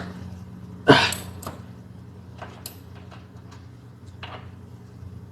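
A single sharp knock about a second in, followed by a few faint clicks and brief high clinks, over a steady low hum.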